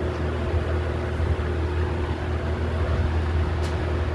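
A 1989 Toastmaster 20-inch box fan running on high speed: a steady motor hum under the rushing sound of the air its blades move.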